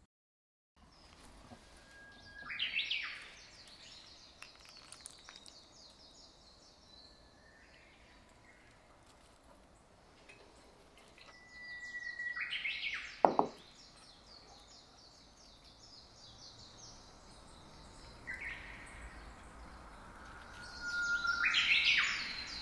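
Birds singing in the background: three short bouts of song, each a whistled note followed by a quick run of high chirps, a little after the start, around the middle and near the end. A single sharp knock about thirteen seconds in.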